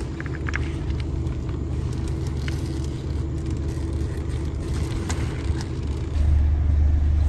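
Steady low rumble and hum of a car engine idling, growing louder about six seconds in, with a few light clicks from tent poles and fabric being handled.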